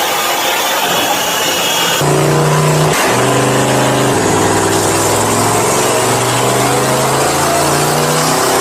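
Supercar engine running hard on a chassis dynamometer. It revs up in the first two seconds, then after an abrupt switch to another car it holds steady notes that step down in pitch and later climb again.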